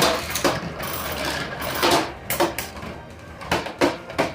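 3D-printed Beyblade spinning tops whirring in a plastic stadium, with about seven sharp plastic clacks as they strike, three of them close together near the end.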